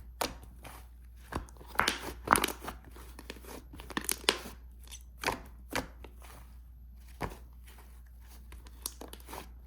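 Hands squishing, pressing and stretching a fluffy clay slime, making irregular soft pops and crackles. The pops come in clusters, with a quieter gap toward the end.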